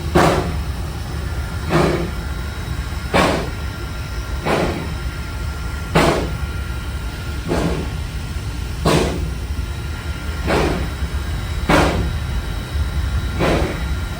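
A slow-running machine giving a short, sharp puff about every second and a half, over a steady low rumble.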